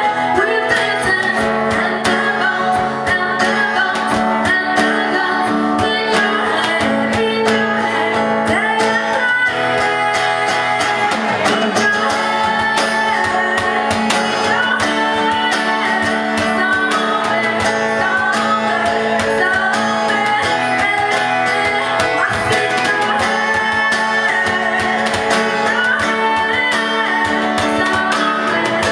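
Acoustic guitar music, played steadily.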